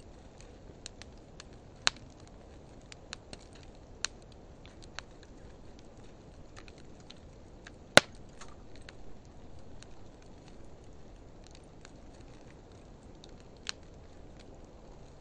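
Wood fire of driftwood and dry hardwood burning: a steady soft hiss of flames with scattered sharp crackles and pops, the loudest pop about eight seconds in.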